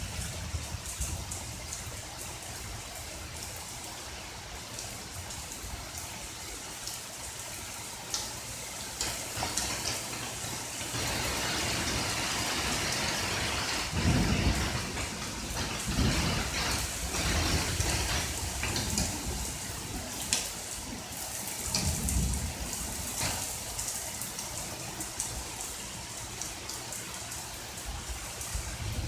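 Steady rain falling with rolls of thunder. The rain grows heavier about a third of the way in, and low thunder rumbles swell through the middle and again a little later.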